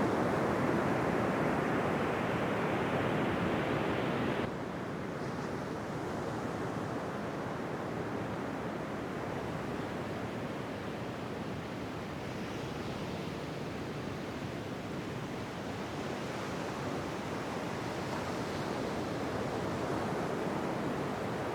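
Ocean waves washing onto a beach: a continuous rushing surf with slow swells. The sound drops suddenly to a softer, steadier wash about four and a half seconds in.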